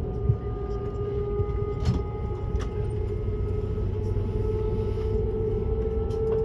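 ICE high-speed train running, heard from inside the passenger car: a steady rumble with a humming tone that grows a little louder in the second half, and a few faint clicks.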